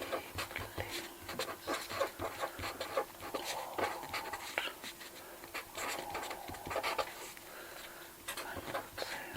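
Cash register keys clicking, pressed in quick, irregular taps.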